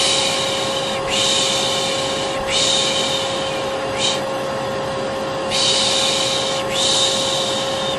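Vacuum cleaner running steadily with a constant motor hum, overlaid by a person's rhythmic "shh" shushing used to soothe a baby to sleep: about six shushes, most around a second long and one brief.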